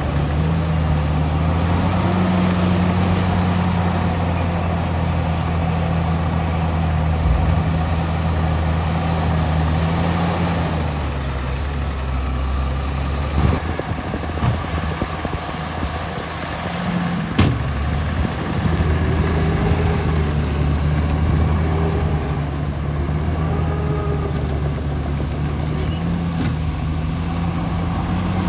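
Heavy diesel engine of earthmoving machinery running steadily. It eases off for several seconds midway before picking up again, with two sharp knocks in the lull.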